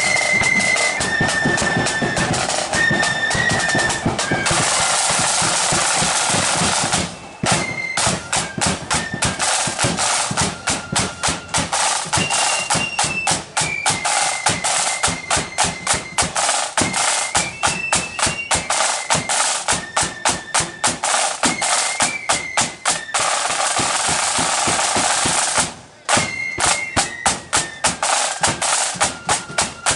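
Marching flute band playing a tune: high flutes over snare drums and a bass drum. Long snare rolls come about five seconds in and again about twenty-three seconds in, with sharp, even drum strokes between them.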